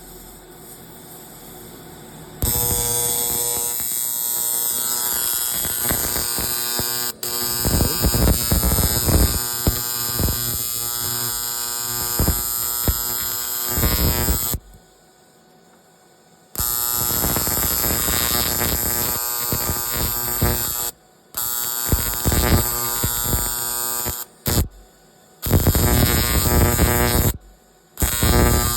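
Electric arc welder running weld beads on snowmobile seat brackets: a loud, steady buzzing arc that strikes about two seconds in. It cuts off and restarts several times with short pauses between beads.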